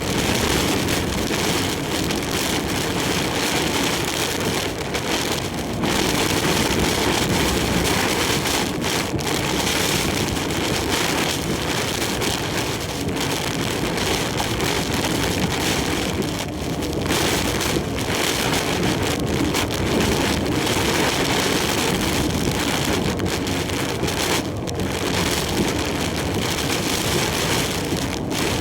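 Heavy typhoon rain and wind beating on a moving truck, a dense steady rush of rain noise with brief slight lulls.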